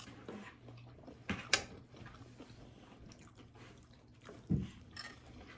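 Quiet eating sounds of someone chewing breaded plant-based chicken nuggets, with two sharp clicks about a second and a half in and a dull knock near the end.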